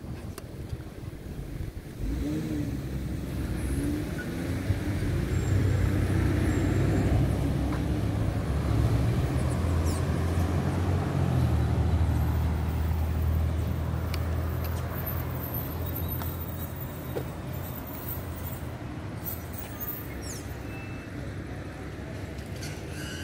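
Street traffic: a motor vehicle's engine running close by, a low steady hum that grows louder about two seconds in and fades away over the last several seconds.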